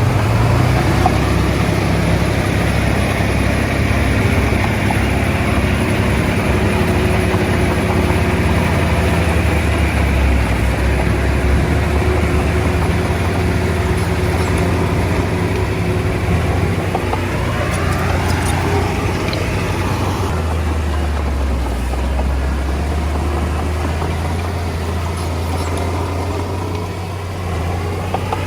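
Diesel engine of a Komatsu D20A bulldozer running steadily while working, its pitch shifting about two-thirds of the way through and again near the end.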